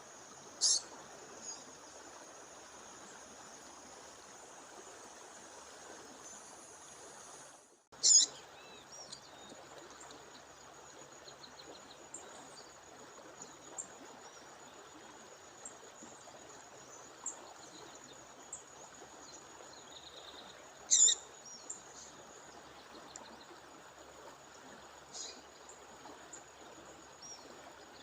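Female bird calling at a waterfall: short, sharp, high-pitched calls, loudest about eight seconds in and again near twenty-one seconds, with a few fainter ones between. Under them runs the steady rush of falling water, along with a thin, continuous high tone. The sound cuts out for a moment just before the first loud call.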